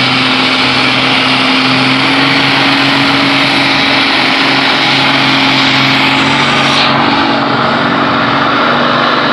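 A pulling vehicle's engine running hard and steady under full load as it drags the weight sled down the track. The highest hiss cuts off sharply about seven seconds in.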